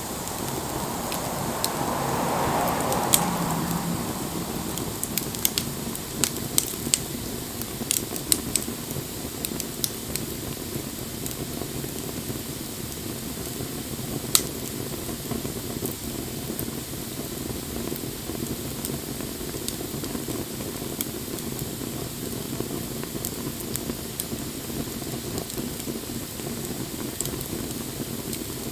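Wood fire burning with a steady hiss and rush of flame, broken by sharp crackles and pops. The pops come thick for several seconds early on, with a single loud pop about halfway through.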